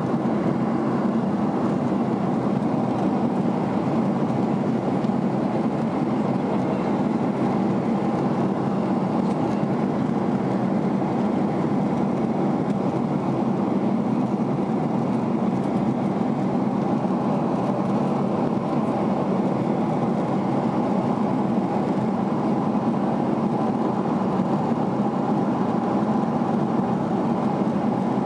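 Steady cabin noise of a Boeing 767 in flight, a constant drone of engines and rushing air.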